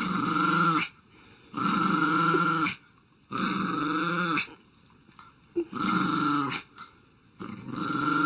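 A dog making five long, drawn-out vocal calls, each lasting about a second, with short pauses between them.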